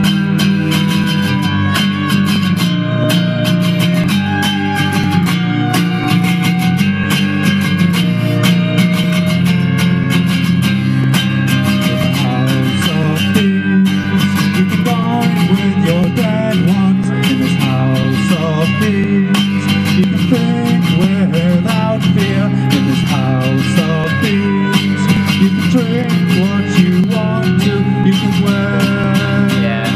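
Live band playing a song, with strummed guitar over a steady beat.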